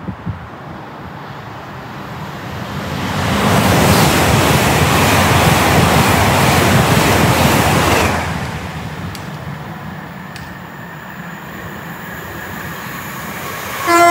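Great Western Railway Class 800-series intercity express train passing at speed: a rush of wheel and air noise that builds over a couple of seconds, holds for about four seconds, then dies away. A train horn starts sounding right at the end.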